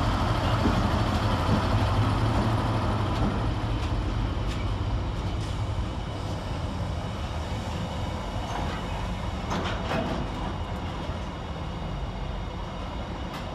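A Freightliner Class 70 diesel locomotive trundles past, its engine hum strong for the first few seconds and then fading. It gives way to the steady rumble of its container wagons rolling past on the rails, with a few sharp clicks about two-thirds of the way through.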